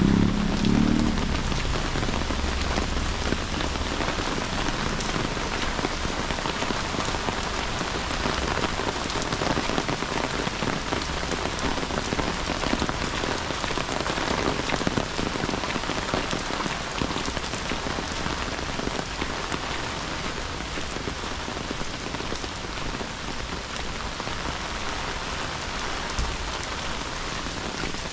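Steady rain: an even, dense hiss of falling drops, with a brief low rumble in the first second.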